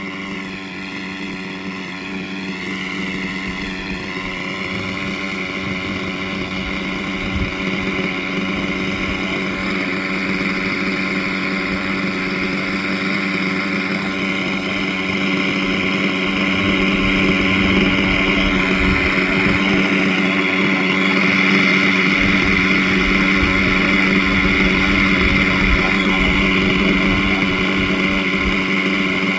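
Nitro glow-fuel engine of a radio-controlled model helicopter running steadily at a high buzz, slowly getting louder.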